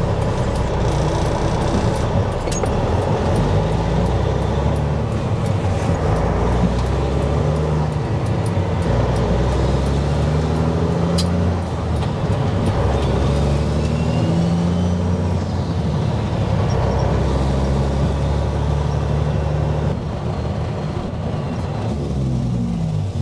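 Dump truck's diesel engine heard from inside the cab while driving, its pitch climbing and then dropping several times as it works through the gears, over a steady low road rumble.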